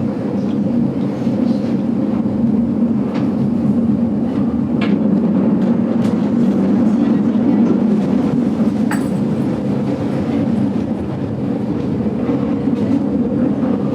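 GoldenPass Belle Époque train carriage in motion: a steady running rumble of wheels on the rails, with a few light clicks from the track.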